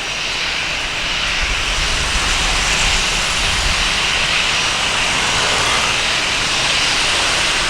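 Jet engines of a Boeing 737-300 (CFM56-3 turbofans) running with a steady rushing hiss and low rumble, swelling slightly over the seconds.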